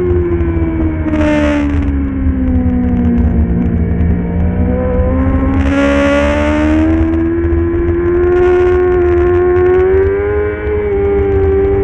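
A middleweight superbike's engine at racing speed. Its pitch sinks for a few seconds as it slows, then climbs back and holds high. Three short bursts of hiss rush through, about a second in, around six seconds and near eight and a half seconds.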